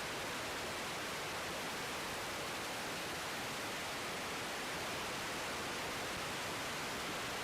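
Steady, even static hiss between air traffic control radio transmissions.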